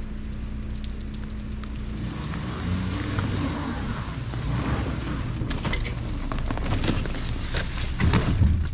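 A car engine running in pouring rain: a steady low hum that shifts and varies about two and a half seconds in, with scattered clicks and knocks later on.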